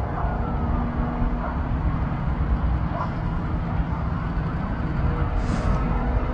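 Steady low rumble of road vehicles and engines, with faint gliding tones that could be a distant siren and a brief hiss about five and a half seconds in.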